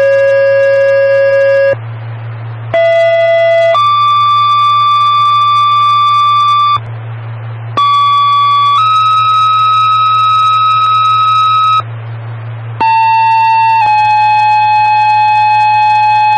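Two-tone sequential fire pager tones sent over a dispatch radio channel: steady tone pairs, a short tone of about a second jumping to a longer tone of about three seconds at a different pitch. Each pair uses a new set of pitches and pages out a different fire or EMS department. The pairs are separated by brief gaps of radio hiss and hum, with the end of one pair at the start and three full pairs after it.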